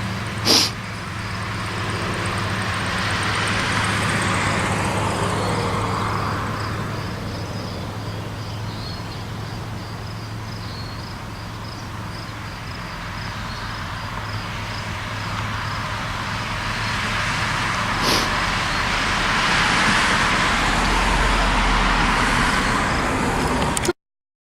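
Diesel train running: a steady low engine drone with rushing wheel noise that swells twice, and two sharp clicks, a loud one right at the start and another about eighteen seconds in. The sound cuts off suddenly near the end.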